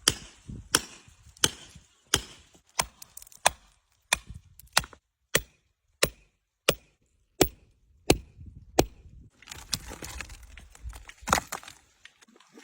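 Hammer striking rock: about fourteen sharp cracks at a steady pace of roughly one every two-thirds of a second. After that comes a stretch of rougher, uneven noise with one more strike near the end.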